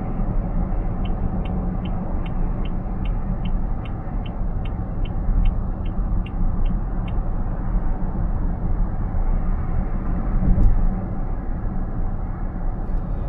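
Steady road and tyre noise inside a car cabin at road speed, with the turn-signal indicator ticking about two and a half times a second for some six seconds from about a second in, signalling a lane change. A single click sounds near the end.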